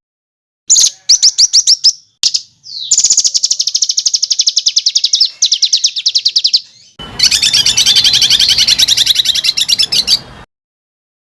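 Small songbird's rapid, harsh trills: long runs of closely spaced sharp notes, many per second, in spliced segments. Each segment cuts off abruptly into silence, and the last and harshest run stops dead near the end.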